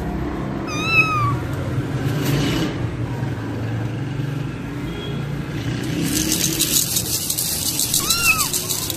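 Kitten mewing: a high, arched mew about a second in, a faint short one midway, and two more close together near the end. A crackling hiss joins in from about six seconds.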